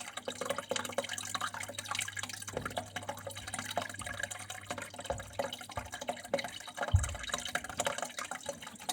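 Water flowing and trickling, a steady irregular patter of small drips and splashes, with a few low thuds, the loudest about seven seconds in.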